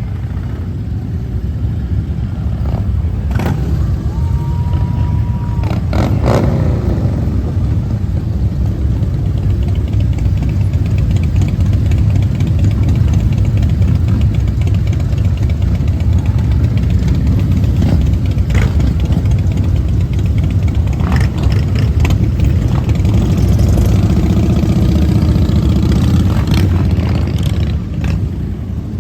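Motorcycle engines from a group ride running in a dense, continuous low rumble. A single steady high tone sounds about four seconds in and lasts about two seconds.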